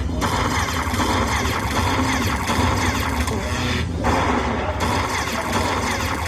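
Lightning Cash Moon Race slot machine playing its bonus-round music and sound effects, a busy run of quick chiming, gliding tones over a steady bass line, with a short break about four seconds in.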